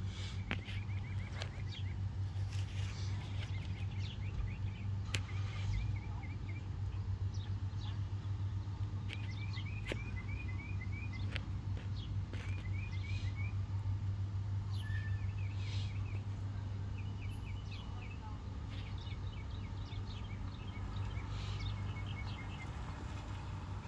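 Small bird chirping in short rapid runs of about five to six notes, repeated every few seconds, over a steady low hum.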